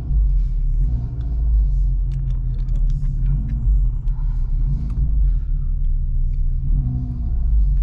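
Car engine running at low speed through a parking lot, a steady low rumble.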